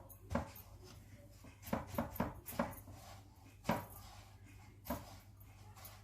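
Irregular soft knocks and taps of hands handling food: pancake rolls being dipped in beaten egg, pressed into breadcrumbs and set down in a container. The loudest knock comes a little before four seconds in.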